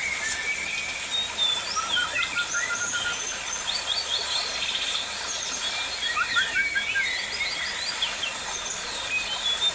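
Several birds chirping and calling at once: quick, overlapping chirps and short sweeping notes, over a steady high hiss.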